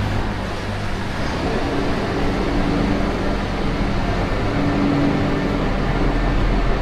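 Street traffic noise: motor vehicles running close by, with a steady engine hum over the general road noise.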